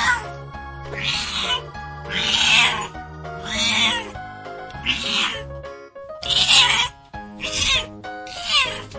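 A cat meowing repeatedly, about seven short meows a second or so apart, over background music with steady held notes.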